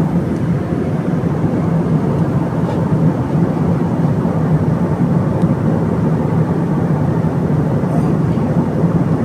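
Steady drone of engines and airflow heard inside the cabin of an Airbus A321-200 in flight.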